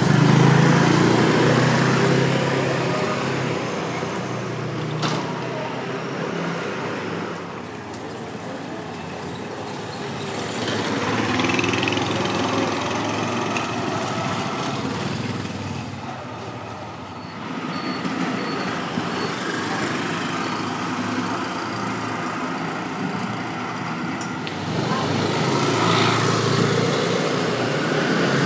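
Motorcycles and scooters crossing the Cẩm Kim bridge, a steady stream of traffic whose engine noise swells and fades in several waves as bikes pass.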